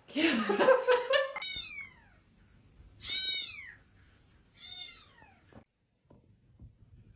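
A domestic cat meowing three times, each a short call that falls in pitch, about a second and a half, three and four and a half seconds in.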